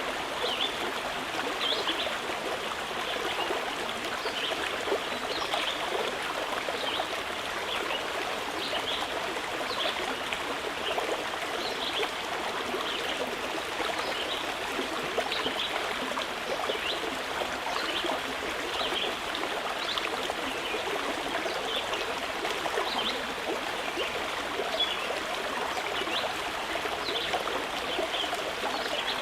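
Mountain river flowing steadily, an unbroken rush of water with short high chirps scattered over it.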